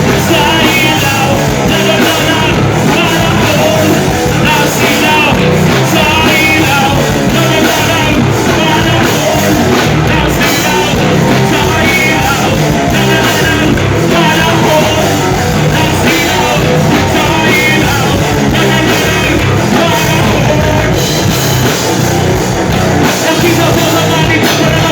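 Loud rock music with a singer.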